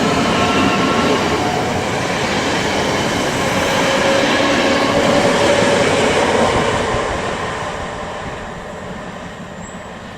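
A train passing through the station with a loud rumble of wheels on rail and a few steady whining tones. It fades away over the last few seconds as it recedes.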